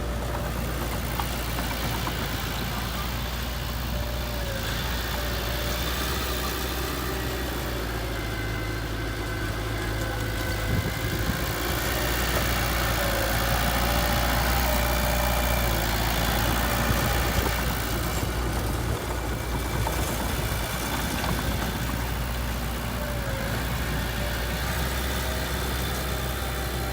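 Heavy diesel engine running steadily, growing louder for a few seconds around the middle.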